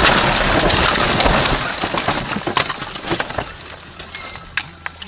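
Aftermath of a vehicle collision: a loud crashing noise fades over about two seconds into scattered clinks and ticks of breaking glass and debris, with a couple of sharp clicks near the end.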